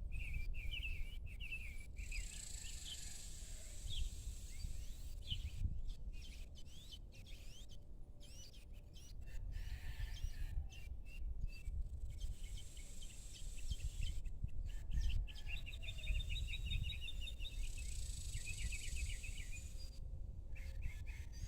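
Evening outdoor ambience: birds chirping and calling on and off, including a quick rapid trill about two-thirds of the way in, over a steady high buzz of insects and a constant low rumble.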